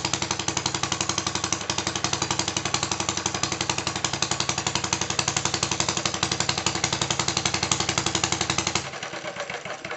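Model four-stroke petrol stationary engine running with a fast, even train of exhaust beats. About nine seconds in it is shut off and the beats slow and fade as it coasts to a stop.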